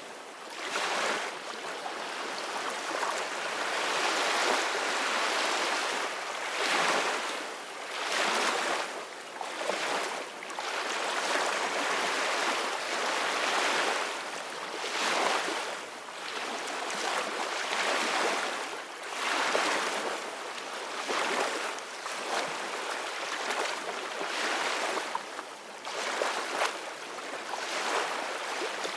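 Ocean waves surging and washing ashore, a continuous rushing hiss that swells and fades every couple of seconds.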